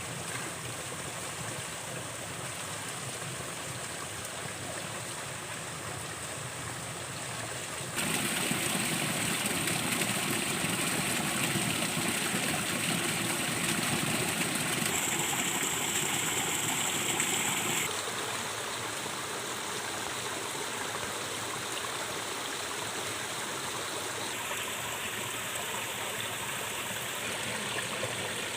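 Running water of a stream, a steady rushing that jumps abruptly louder about 8 seconds in and drops back about 18 seconds in.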